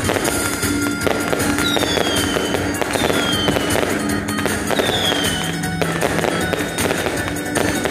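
Fireworks going off: a dense, continuous crackle of firecrackers and bursting shells, with three short falling whistles about two, three and five seconds in.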